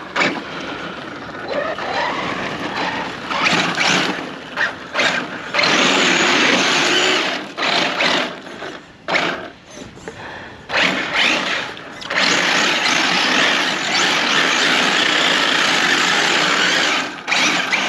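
1/7 scale electric RC rally car being driven in bursts: its motor whine rising as it speeds up and tyre noise rushing against the ground, with two long loud runs.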